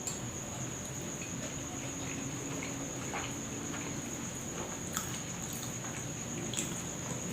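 A person chewing soft fried food, with scattered small clicks and mouth sounds, over a steady high-pitched whine.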